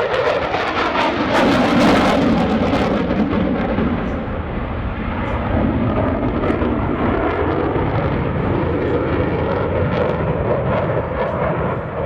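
F-16C Fighting Falcon's General Electric F110 jet engine passing in a flyby. It is loudest and harshest about two seconds in, then settles to a steady rumble.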